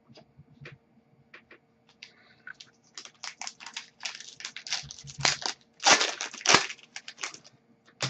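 Foil trading-card pack wrapper being torn open and crumpled by hand: a few light clicks, then from about three seconds in a run of crinkling and tearing, loudest near the end.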